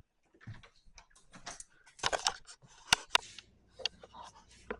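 Handling noise of making coffee in a kitchen: an irregular run of clicks, knocks and rustles, busiest about two seconds in, with two sharp clicks near the three-second mark.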